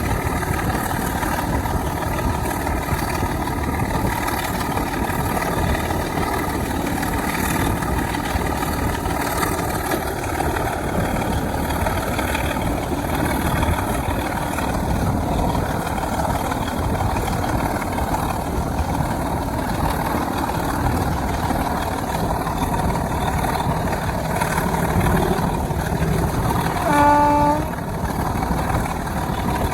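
Heritage diesel locomotive working, a steady loud engine and train running noise. Near the end comes one short, pitched, horn-like tone.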